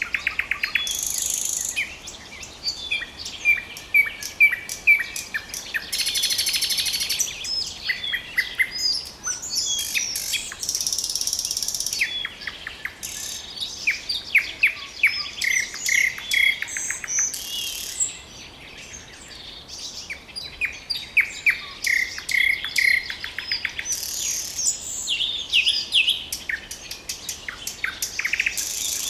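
Nightingale singing: a continuous varied song of rapid repeated notes, dry rattling trills and clear whistled phrases, with short pauses between phrases.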